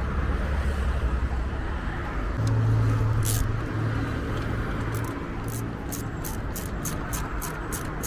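Car running with a low steady rumble and drone. About five seconds in, a fast, even, high-pitched ticking starts, about three to four ticks a second.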